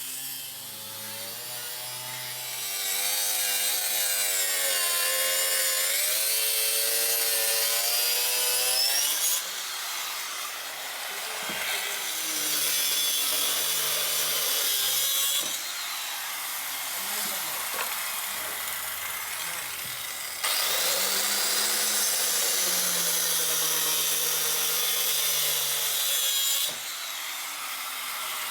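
Electric power saw cutting plywood, its motor pitch dipping and rising as the blade bites. There are two loud cuts, one starting about three seconds in and one about two-thirds of the way through, with quieter running between them.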